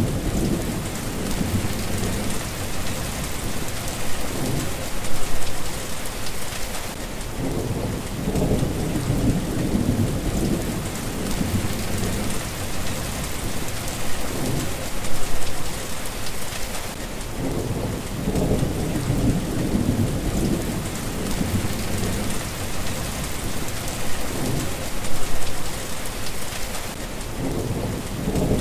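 Steady rain falling, with low rolls of distant thunder that swell and fade about every ten seconds.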